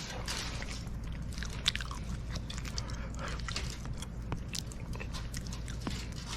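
Close mouth sounds of someone chewing a soft roasted sweet potato, with scattered sharp snaps from a wood fire crackling; one louder crack comes about a second and a half in.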